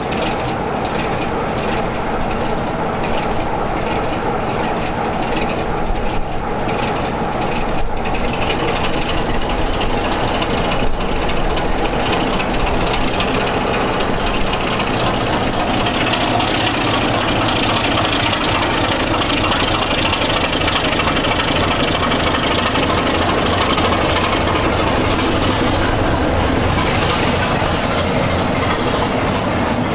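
A train running steadily: the continuous rumble of a locomotive and its wheels on the rails, with scattered clicks.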